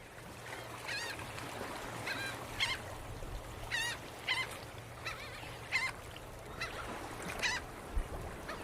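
Birds calling over and over, about a dozen short calls with a wavering pitch, spaced irregularly, above a steady low hum.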